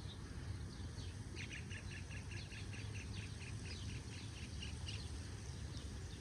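A small bird giving a quick run of short, high chirps, about four a second, starting about a second in and stopping about five seconds in, over a faint steady low rumble.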